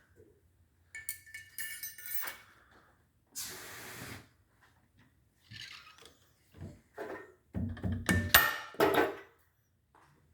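Metal clinks and ringing clanks from valve springs, retainers and keepers being taken off a Subaru overhead-cam cylinder head. The loudest clanks come about eight seconds in. There is a brief hiss near four seconds.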